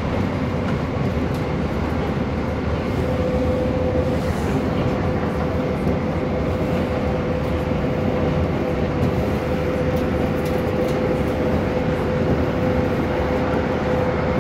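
Moving passenger train heard from inside the carriage: a steady rumble of running noise with a constant whine-like tone over it.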